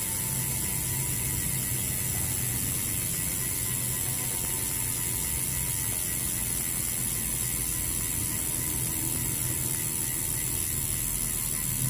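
Powerway R36 bicycle freehub freewheeling, its ratchet making a steady, rapid buzzing click as the rear wheel spins without pedalling.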